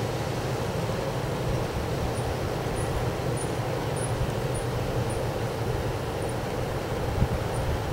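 Strong wind blowing, a steady low rumble with the wind buffeting the microphone, and a brief thump near the end.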